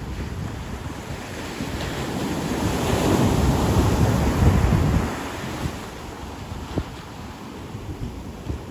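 Ocean surf: a wave swells and breaks with a wash of water about halfway through, then recedes, with wind buffeting the microphone.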